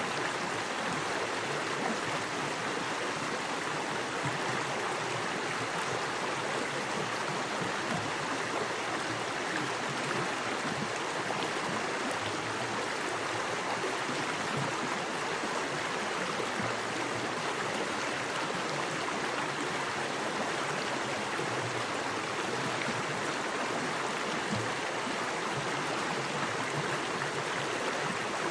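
Small creek running fast over rocks: a steady, even rush of water.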